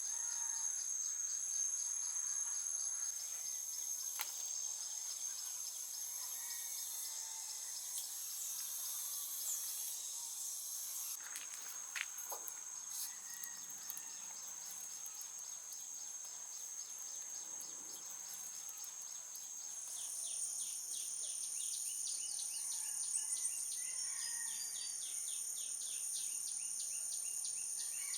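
Insects trilling steadily in several high-pitched layers, with a few faint bird chirps and scattered light clicks; a new, rapidly pulsing insect voice joins about twenty seconds in.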